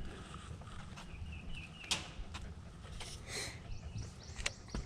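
Quiet outdoor ambience on the water: a low steady rumble, a few sharp clicks (one about two seconds in, another near the end), and faint high chirps.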